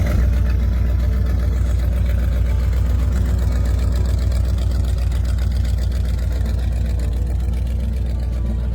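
Car engine idling steadily, a deep even rumble with rapid regular firing pulses.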